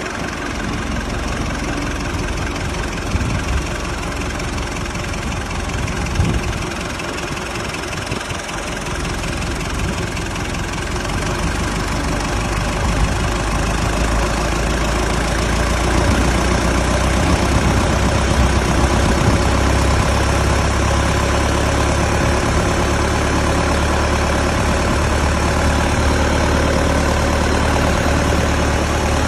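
Hino N04C four-cylinder diesel engine idling steadily, its low-pitched running getting somewhat louder and fuller about halfway through, then holding even.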